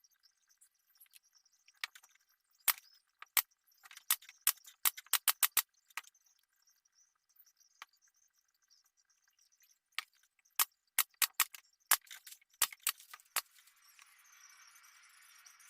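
A series of sharp clicks and taps, some in quick runs and some single, then a faint steady hiss from about fourteen seconds in.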